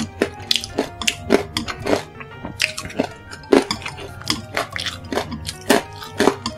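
Close-miked crunchy chewing of basreng, crisp fried meatball chips, in a quick irregular run of crunches, with light clinks of chopsticks on the plate. Soft background music plays underneath.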